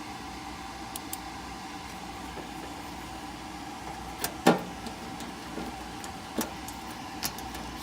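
Steady mechanical hum with a few short clicks and knocks from work on a gas furnace, the loudest knock about halfway through.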